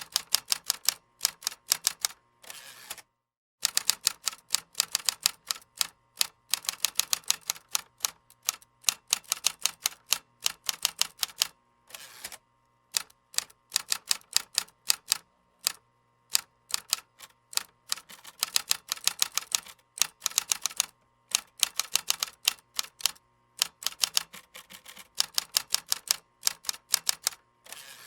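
Keyboard typing: rapid runs of key clicks broken by short pauses, with an occasional duller, longer stroke.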